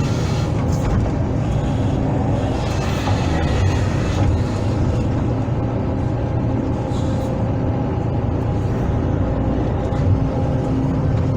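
Hydraulic excavator's diesel engine running steadily under working load, with a brief rush of higher hiss a few seconds in.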